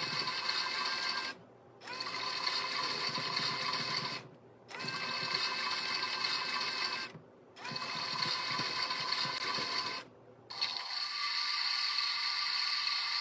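Mini makeup-sponge washing machine's small electric motor running with a high whine and a rattle, dropping out briefly about every three seconds. Near the end the rattle fades and the whine carries on alone.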